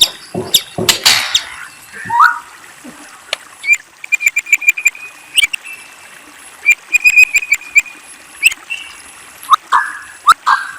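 A murai songbird singing. It opens with loud, harsh sweeping notes, then gives a falling whistle about two seconds in. Quieter stretches of rapid clicks and short trills follow, and louder whistled phrases return near the end.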